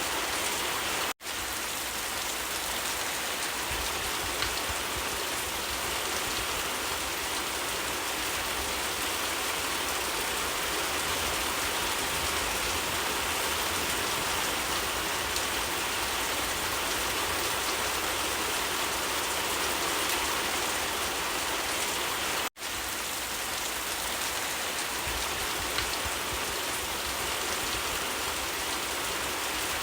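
Steady rain falling, an even hiss of drops. It cuts out for an instant twice, about a second in and again about three quarters of the way through.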